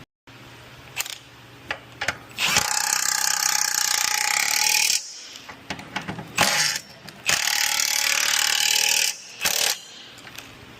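Power tool run in two long bursts, one of about three seconds and one of about two, with a steady whine over a hissy whirr. A few short blips of it and some metallic clicks fall before, between and after.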